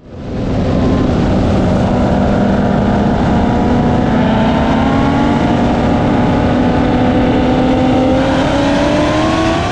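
ProCharger-supercharged 441 cubic-inch LSX V8 of a C6 Corvette Z06 with straight-piped exhaust pulling hard at full throttle, its note climbing steadily in pitch through a long gear and rising faster near the end, over heavy wind rush.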